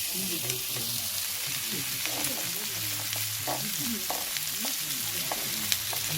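Pork belly sizzling as it grills over an oak-wood fire, a steady hiss of frying fat with scattered sharp pops and spits.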